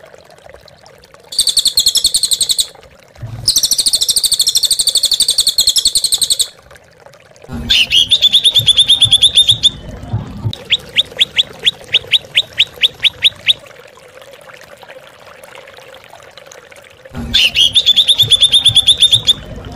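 Songbird singing in loud bursts of fast, high trilling, then a run of quick separate notes at about six a second. After a few seconds' pause, another trill comes near the end.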